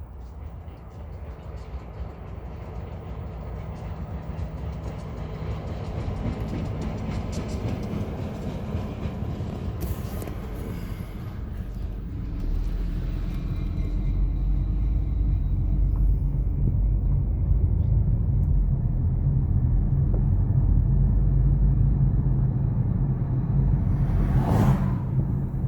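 A diesel-hauled freight train approaching, its low engine rumble growing steadily louder, with a steady low drone coming in strongly about halfway through.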